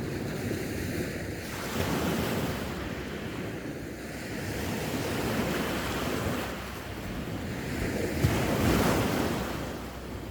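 Sea waves breaking and washing on the shore, the surf swelling and easing in surges every few seconds, with wind on the microphone.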